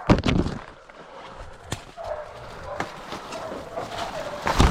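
Hunting dogs barking faintly at a feral pig they have caught and are holding, with short calls scattered through the middle. A loud rustling thump comes at the start and another near the end.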